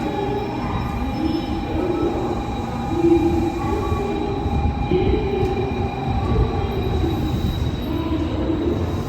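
Train running on rails: a steady low rumble with a high, constant whine over it.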